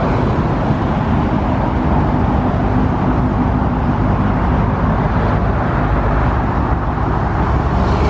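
A car engine idling steadily, a low even rumble with a hiss of outdoor noise over it.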